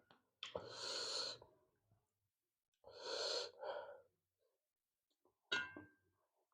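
Two long, breathy exhales from a person eating, one about half a second in and one about three seconds in, then a short wet click of the mouth near the end.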